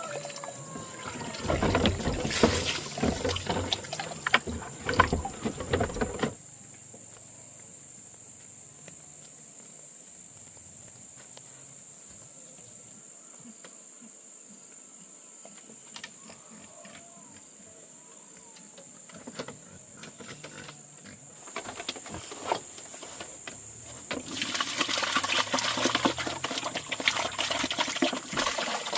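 Water splashing and pouring in two noisy spells, one at the start lasting about six seconds and another beginning near the end, with a quieter stretch between.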